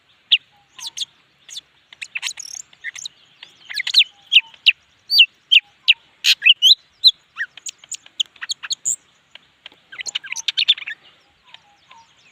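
Leafbird singing hard: a fast, irregular stream of short, sharp whistles and chirps, with busier clusters now and then.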